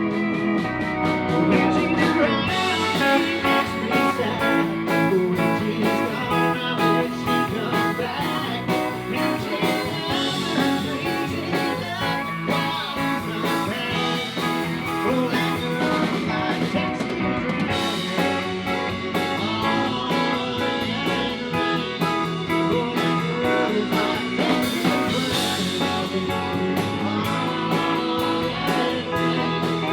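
Live country-rock band playing an instrumental break led by guitar, with no singing.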